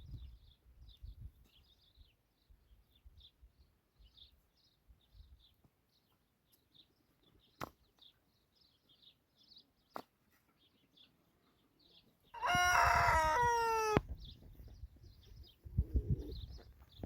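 A rooster crows once near the end, a single call about a second and a half long, slightly falling in pitch. Before it there is faint high chirping and two short clicks.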